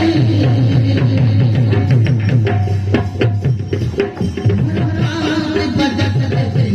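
Bastar naat folk theatre music: hand drums beating a fast, steady rhythm, with a melody instrument playing held notes over it.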